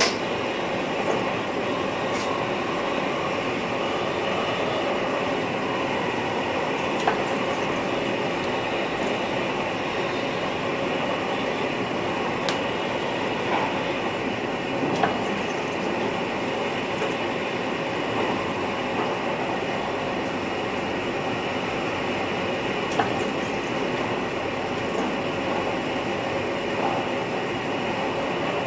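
NS VIRM double-deck electric train running, heard from inside the driver's cab: a steady running noise with a few sharp clicks scattered through it.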